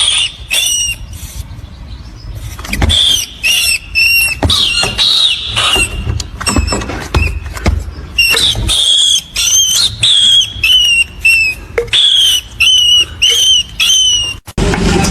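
A small animal's high-pitched squeaks: many short calls in quick clusters, each arching up and down in pitch.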